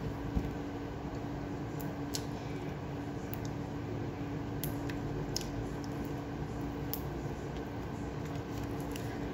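Close-up eating sounds of someone chewing a mouthful of rice and greens, with scattered wet clicks and smacks, over a steady low hum.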